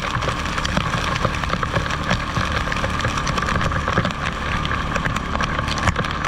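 ATV engine running at a steady pace while riding along a trail, with frequent sharp ticks and knocks scattered over it.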